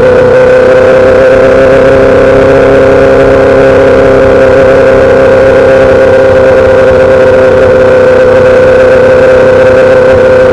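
2008 Yamaha R6 inline-four through a full SC-Project exhaust, held at a steady engine speed with an unchanging pitch throughout.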